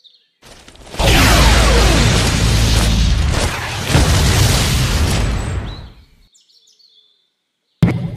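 A deep boom that swells into a loud rumbling blast with a falling whoosh, lasting about five seconds and fading out. A few faint high bird chirps follow near the end.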